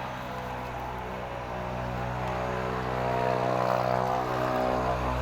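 Diesel engine of a city bus running close by, a steady low drone that grows louder about three seconds in as it draws nearer.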